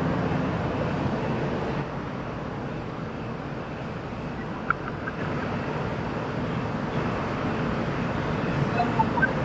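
Steady street background noise: traffic and a vehicle running, with faint voices in the distance and a single click about halfway through.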